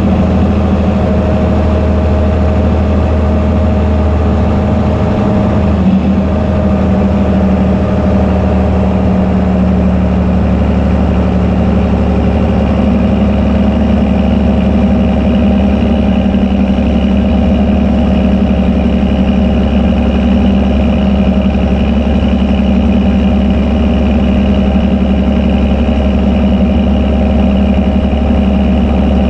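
Fendt Favorit 926 Vario tractor engine running steadily through an open, unsilenced exhaust, its note shifting slightly about six seconds in.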